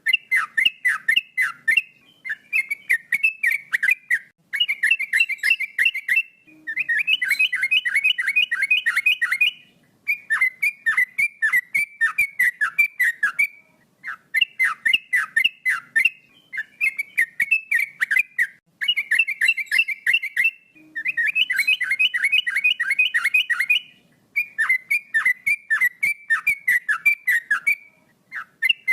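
Male yellow-vented bulbul singing in loud, rapid bursts of quick repeated whistled notes, about ten phrases each a couple of seconds long with short pauses between.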